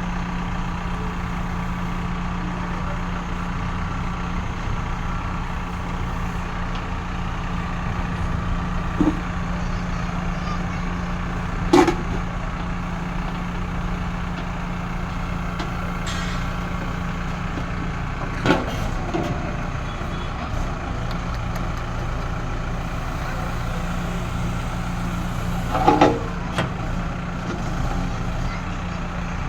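Backhoe loader's diesel engine running steadily, with four short sharp knocks scattered through, the loudest a double knock near the end.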